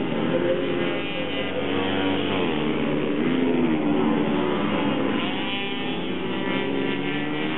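Several small racing minibike engines running at high revs together, their pitches rising and falling as they accelerate, shift and pass.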